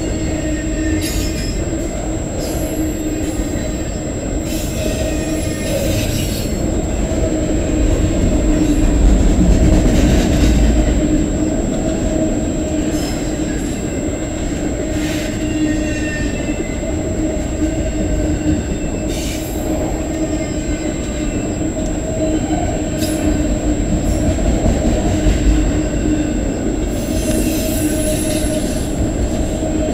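CN freight train's cars rolling past: a steady rumble of steel wheels on rail, with brief high squeals and clacks from the wheels every few seconds.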